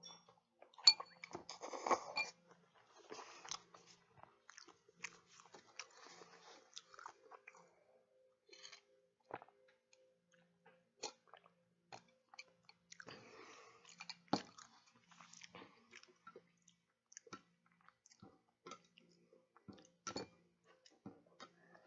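Close-up mouth sounds of eating sushi and udon: wet chewing with lip smacks and clicks, densest and loudest around the first two seconds.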